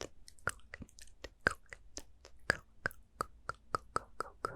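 Close-miked ASMR mouth sounds: a quick, fairly even run of sharp mouth clicks, about four a second.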